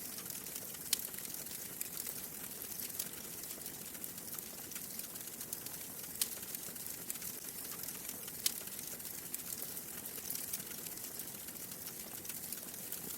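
Wood fire crackling steadily: a soft hiss under a run of small ticks, with a few sharper pops, about 1, 6 and 8.5 seconds in.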